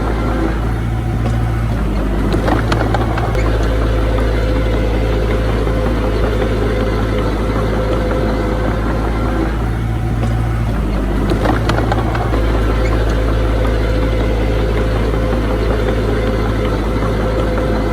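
Diesel engine of earthmoving machinery running steadily with a deep, constant hum. A short clatter comes about two and a half seconds in and another at around eleven and a half seconds.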